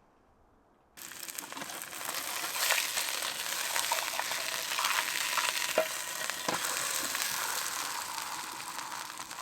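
Burger patty sizzling in a hot pan: a steady frying hiss with scattered pops, starting abruptly about a second in.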